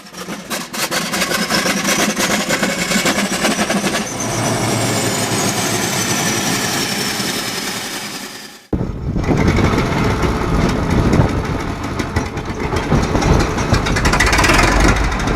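A large old engine running with a fast, rough pulse and a high whine that rises and then falls. About two-thirds of the way in it cuts off abruptly, and another heavy engine takes over, running with a deep, clattering rumble.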